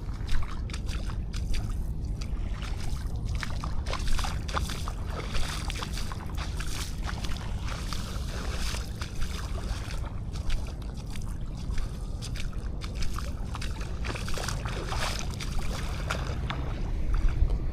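Small sea waves lapping and splashing at the shoreline, a busy irregular crackle over a steady low rumble.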